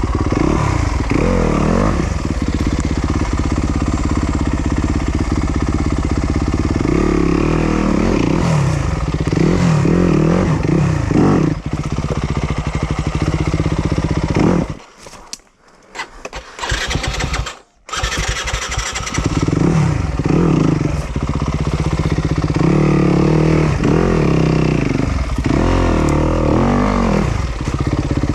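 Yamaha YZ250FX 250cc four-stroke single-cylinder dirt bike engine revving up and down on an enduro course. About halfway through the sound cuts out abruptly, comes back for about a second, cuts out again, then the engine runs on.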